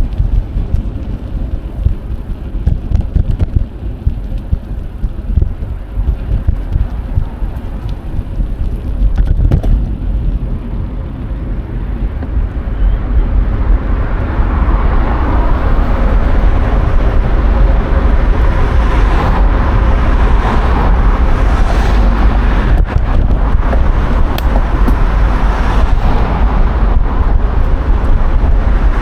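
Wind noise on an action camera's microphone during a bike ride, with road traffic around; the noise gets louder and fuller about halfway through.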